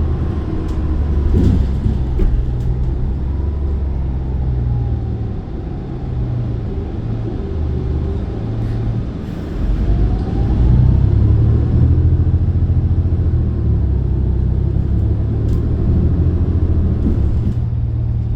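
Heard from inside a moving city bus: a low engine and road rumble with a faint drivetrain whine that glides down and then up in pitch, and a few light rattles. The rumble grows louder about ten seconds in as the bus picks up speed.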